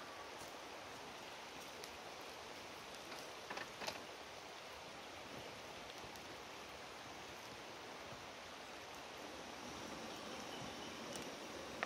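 Prawns sizzling in hot oil in a wok on a camp gas stove, a steady fine hiss. A couple of light knocks come about three and a half seconds in.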